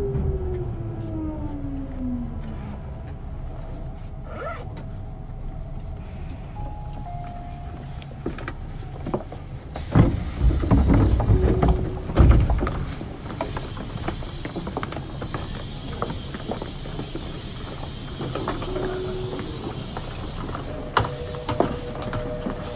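Tobu 9000 series train with AFE chopper control, heard from on board as it brakes. A whine falls steadily in pitch for the first few seconds. About ten seconds in come a couple of seconds of loud low rumbling and knocks, then a sudden steady air hiss that carries on. A short steady two-note tone sounds near the end.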